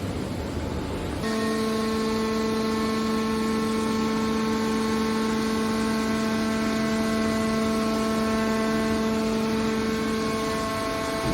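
Hydraulic scrap metal baler running, with a steady machine hum that sets in about a second in and holds evenly over a rushing background noise.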